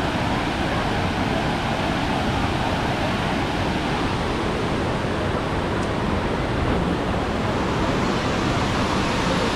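Steady, even rushing of falling and churning water.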